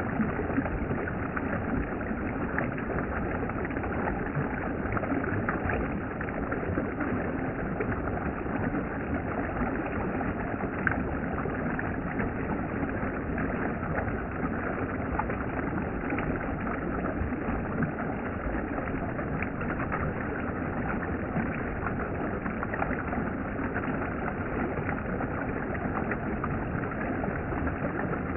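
Water in a valley stream flowing, a steady rushing and splashing that does not change.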